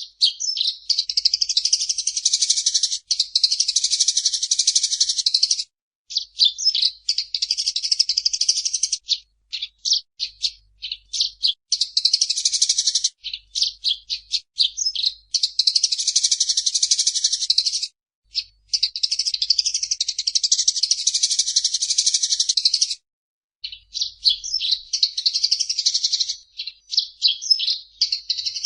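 Eurasian tree sparrow chirping rapidly in long, dense runs of a few seconds each, broken by short pauses and scattered single chirps.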